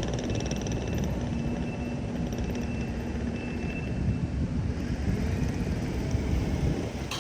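Heavy diesel machinery running steadily: a dense low engine rumble with a faint high whine that comes and goes.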